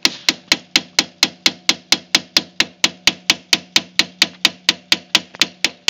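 Hammer blows driving a nail, fast and machine-even, about four strikes a second, all equally loud, over a steady low hum.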